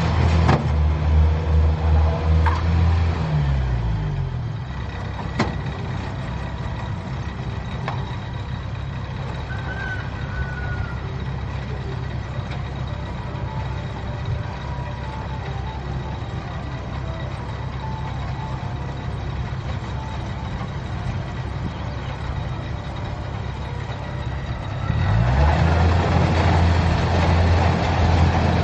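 Kubota combine harvester engine running at high speed, then slowing to a lower, quieter speed about three seconds in. It runs steadily there, then speeds back up near the end.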